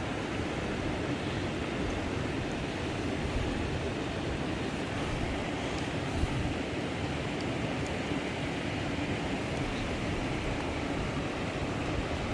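Small mountain creek running over rocks, a steady rushing of water, with one faint click about six seconds in.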